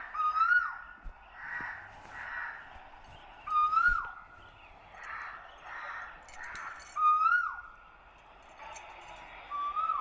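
Birds calling: a loud call that rises and then drops sharply, repeated about every three and a half seconds, with fainter, rougher calls in between.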